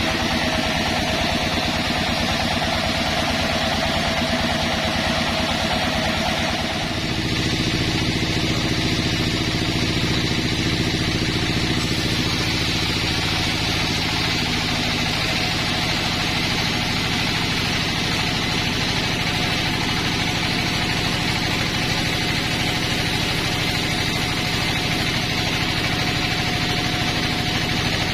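Sawmill's engine running steadily, its pitch shifting about seven seconds in.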